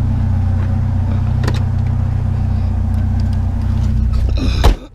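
Vehicle engine idling steadily, a low even hum. A sharp click comes about a second and a half in, and a brief loud noise just before the sound drops off abruptly near the end.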